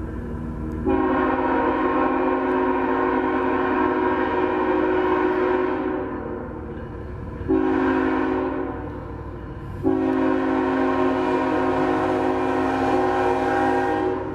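Diesel locomotive multi-chime air horn sounding a chord in a long blast, a short blast and another long blast, the tail of a grade-crossing signal, over the low rumble of the passing train.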